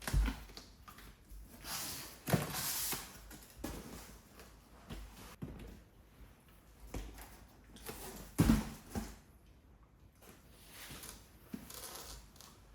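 Scattered knocks, clicks and rustling of objects being handled. The two strongest knocks come about two and a half seconds in and about eight and a half seconds in.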